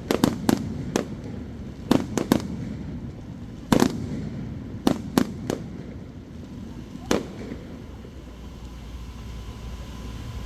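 Aerial fireworks shells bursting overhead: about a dozen sharp bangs in quick clusters of two or three, then the bangs stop about seven seconds in.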